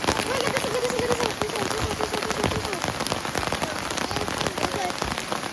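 Steady rain falling, many close drops striking a surface, with a faint voice in the first half.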